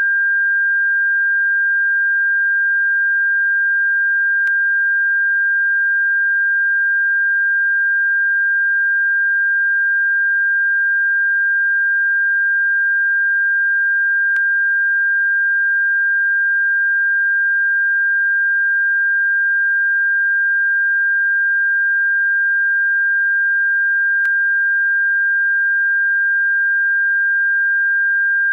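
A steady, unwavering high-pitched electronic sine tone, played as a bird-repellent sound. A faint click comes about every ten seconds.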